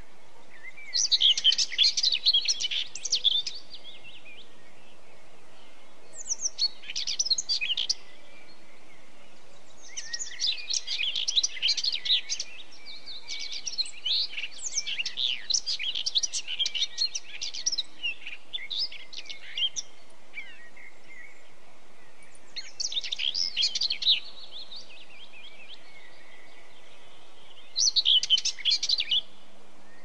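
Songbirds chirping in bursts of rapid, high twittering notes. Each phrase lasts one to several seconds, with pauses between phrases, over a steady faint background hiss.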